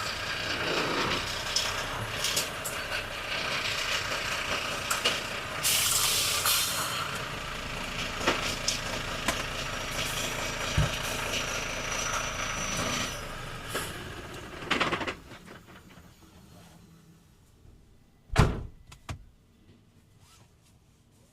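Volvo FH truck's engine and road noise heard in the cab, with scattered clicks and knocks. About fifteen seconds in the running noise stops and it goes nearly quiet, broken by one sharp clunk a few seconds later.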